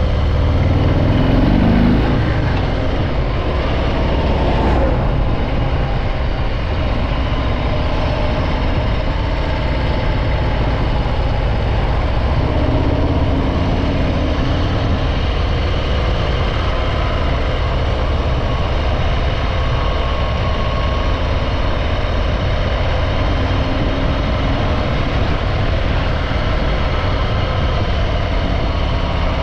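Harley-Davidson Breakout 114's Milwaukee-Eight V-twin running on its stock exhaust while riding. It climbs in pitch over the first two seconds, then runs at a steady pace.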